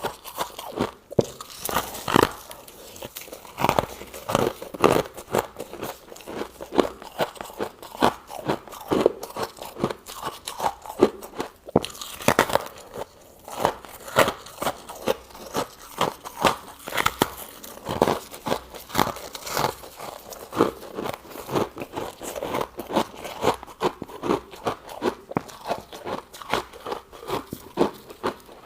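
Freezer frost being bitten and chewed: a long run of rapid, irregular crunches.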